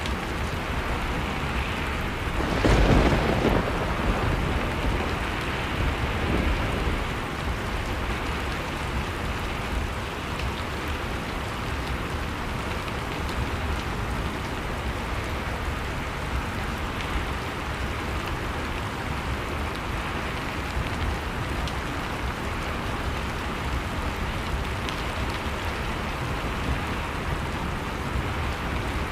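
Fireplace fire crackling steadily over blizzard wind, with a louder surge about three seconds in that dies away over a second or so.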